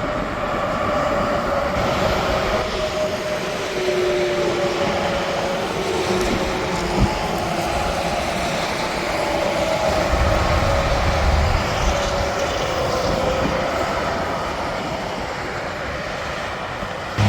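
Interstate highway traffic: tractor-trailers and other vehicles passing, a steady rush of tyres and engines with a faint whine that slowly falls in pitch, and a brief knock about seven seconds in.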